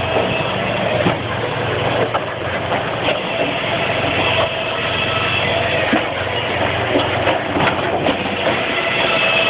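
Firewood processor (RCA 400 saw-splitter) running steadily, with scattered sharp knocks of wood.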